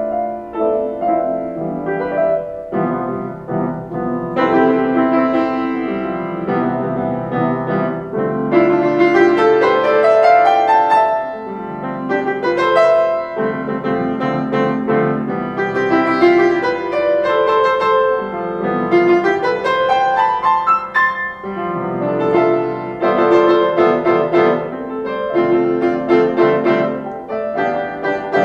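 Solo piano playing with sustained chords and flowing rising runs of notes, repeated in waves.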